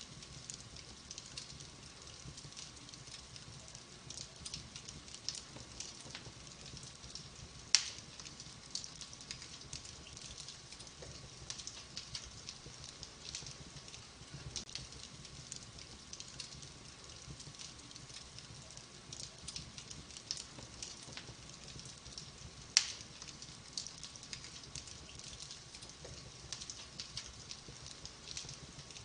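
Fire in a fireplace crackling steadily with many small crackles, and two louder pops, one about eight seconds in and one about twenty-three seconds in.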